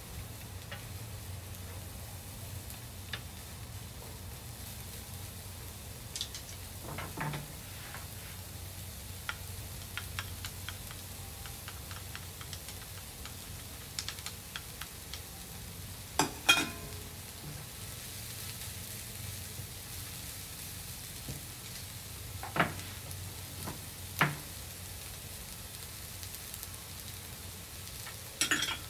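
Beef brisket slices and bean sprouts sizzling steadily on a hot griddle. A handful of sharp taps and clinks of wooden chopsticks against a small bowl and the griddle cut through, the loudest a little past halfway.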